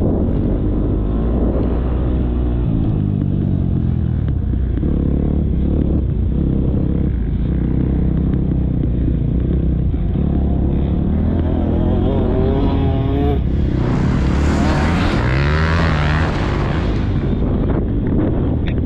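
KTM motocross bike's engine revving up and falling back again and again as it is ridden around a track, heard on board. A loud rushing noise sweeps over it for about three seconds in the second half.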